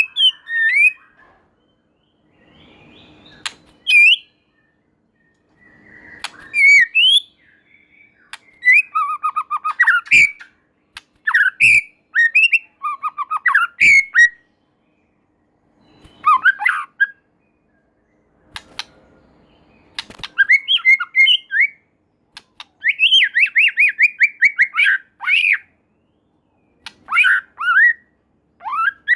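White-rumped shama singing: a run of varied phrases, each a second or two long with short pauses between, mixing whistled glides, sharp clicks and fast trills.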